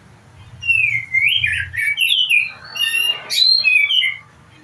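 Songbird singing a fast, varied run of sliding whistled notes that starts just under a second in and stops about four seconds in.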